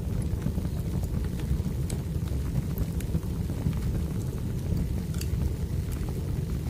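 Wood fire burning: a steady low rush with scattered sharp crackles and pops of burning logs.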